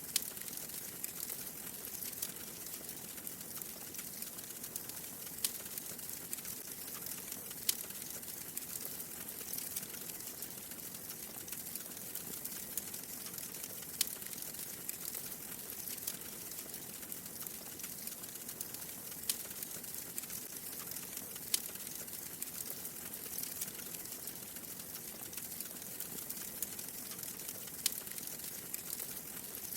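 Wood fire in a fireplace crackling: a steady soft hiss with sharp pops every few seconds.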